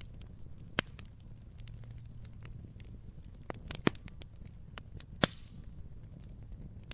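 Wood fire crackling, with scattered sharp pops over a low, steady rumble of the flames; the loudest pops come about four and five seconds in.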